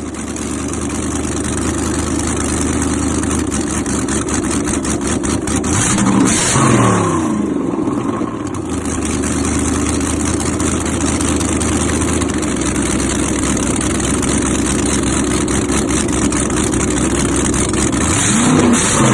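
A car engine held at high revs for several seconds at a time. The revs dip and climb back about six seconds in, and again near the end.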